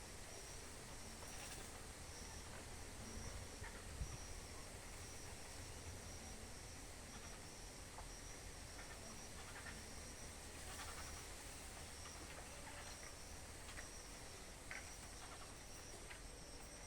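Insects chirping in an even, high-pitched pulsing rhythm, about two chirps a second, over a faint low rumble, with a few soft clicks.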